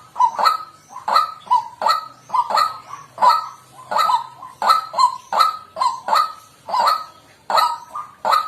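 White-breasted waterhen calling, a steady series of short, harsh 'kwak' notes at about two a second.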